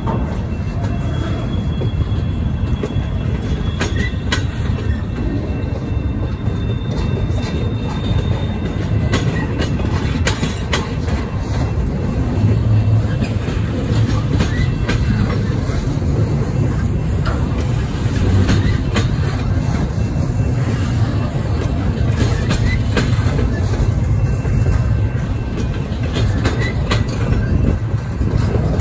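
Double-stack intermodal freight train rolling past: a steady low rumble of the well cars' steel wheels on the rails, broken by irregular clicks and knocks as wheels cross rail joints. A faint, thin, high-pitched wheel squeal runs through the first eight seconds or so.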